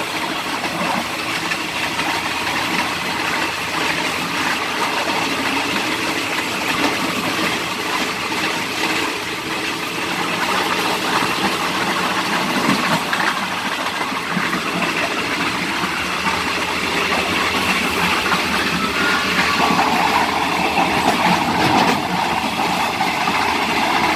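Steady running noise of a moving passenger train heard from inside the carriage, with a rise in mid-pitched rumble about twenty seconds in.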